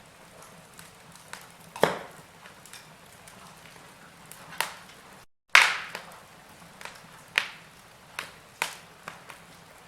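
Wood fire crackling in a fireplace: sharp pops and snaps every second or two over a soft steady hiss. Just past halfway the sound drops out for a moment, then comes back with the loudest pop.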